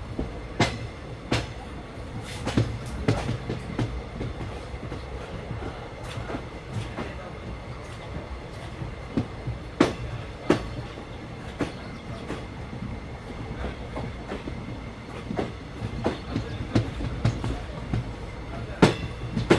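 Train running along the track, heard from on board: a steady low rumble with irregular sharp clacks and knocks from the wheels over the rail joints, and a faint steady hum.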